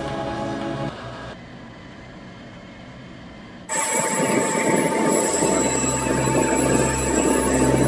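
Background music fades out, and a few seconds in a steady aircraft engine noise cuts in abruptly: a loud rumble with a steady whine and a low hum.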